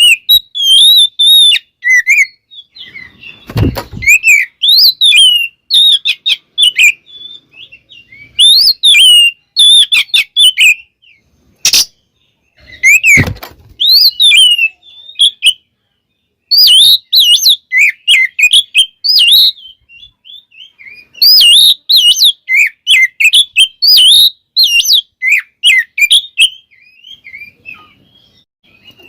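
Oriental magpie-robin (kacer) singing loudly: quick runs of high whistled notes that rise and fall, in bursts with short pauses. A few sharp clicks or knocks fall among the phrases.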